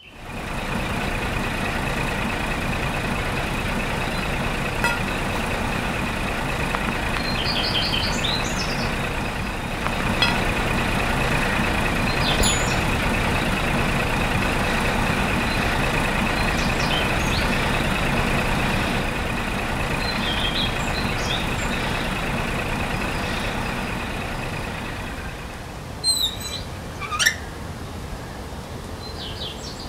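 A truck engine running steadily, fading about 25 seconds in, with short bird chirps here and there and a falling call near the end.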